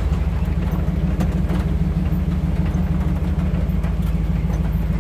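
Truck driving slowly over a bumpy road: a steady low engine and road drone with faint scattered knocks and rattles.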